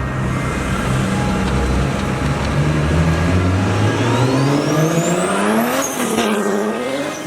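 Car engine accelerating hard through a newly fitted sequential gearbox: the revs climb steadily, drop sharply on a quick upshift about six seconds in, then climb again, with a high whine rising alongside the revs.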